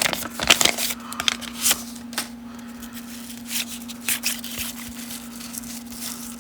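Baseball cards being handled and flipped through: intermittent rustling and light clicks of card stock, busiest in the first couple of seconds and sparser after, over a steady low hum.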